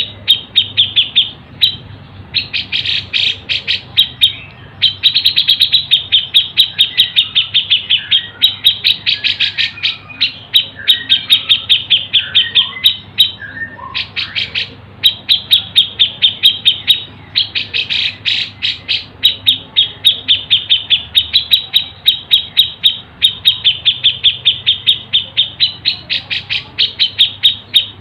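Songbird call recording of the kind used as a masteran training track: long runs of rapid, high chirps, about seven a second, broken by short pauses, with a few softer, lower whistled notes in between around the middle.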